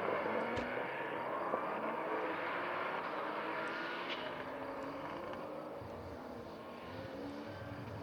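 Rally car engine revving hard, its pitch rising and falling with a few sharp cracks, then fading as the car moves away.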